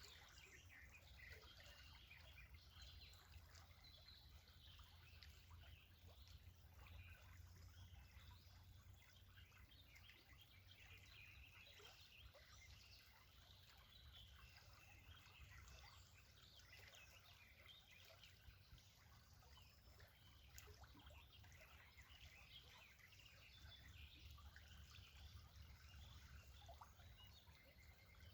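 Faint natural ambience: many small birds chirping in quick, scattered calls, over a low steady rumble.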